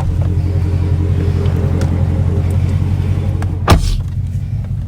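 Dodge Charger Scat Pack's 392 HEMI V8 idling steadily with a low rumble. A single sharp knock sounds about three and a half seconds in.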